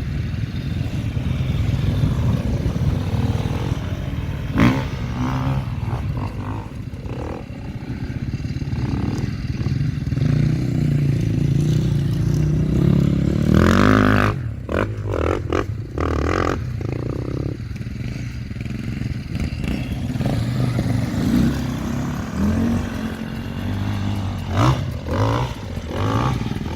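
Motocross motorcycle engine sound, revving up and down, with the pitch rising several times as the bikes accelerate.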